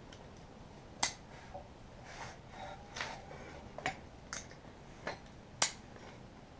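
Metal hand tools clicking and scraping against drum-brake parts: about five sharp clicks, the loudest near the end, with softer scrapes between.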